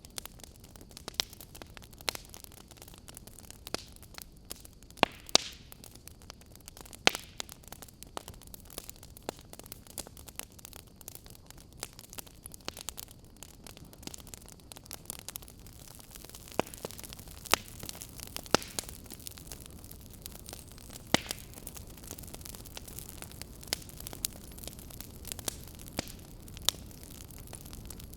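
Wood fire burning in a fireplace: a steady low rumble and hiss of flames with frequent sharp, irregular crackles and pops from the burning logs.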